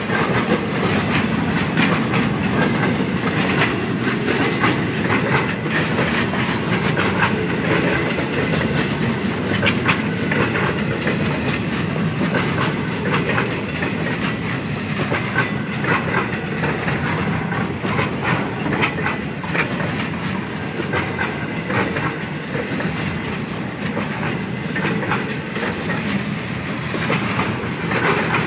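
Freight cars of a passing train rolling by close up, steel wheels clicking over the rail joints in a steady run of clacks over a continuous rumble.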